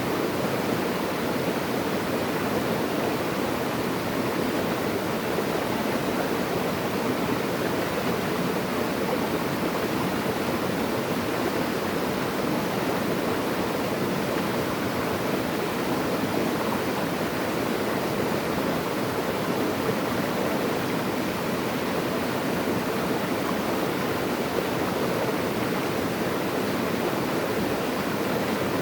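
Flowing water rushing steadily, an even, unbroken sound with no change in level.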